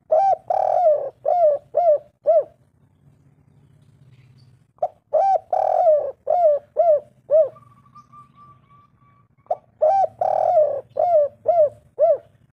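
Spotted dove cooing: three phrases, each of six or seven short arched coos, about five seconds apart.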